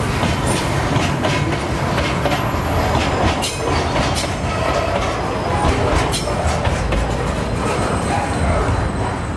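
Train wagons rolling past close by, loud and steady, with the wheels clicking and clattering over the rail joints.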